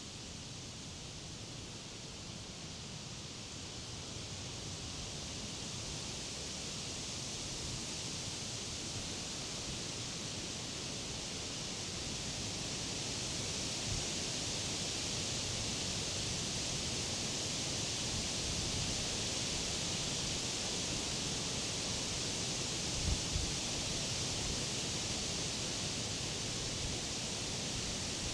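Wind rustling through the leaves of summer trees and grass, a steady hiss that swells gradually over the first half, with a couple of brief low thumps near the end.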